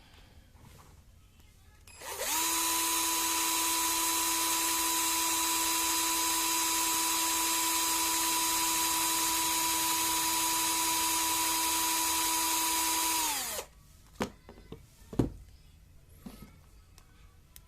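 Electric power drill starting up, running at a steady full speed for about eleven seconds with a constant high whine, then winding down. A few clicks and one loud knock follow.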